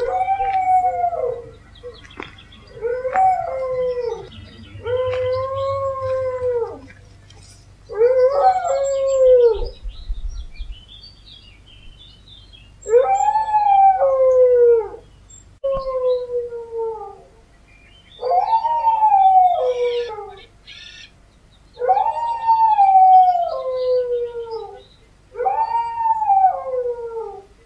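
Siberian husky howling: a series of about nine short howls, each rising and then falling in pitch, a second or two apart.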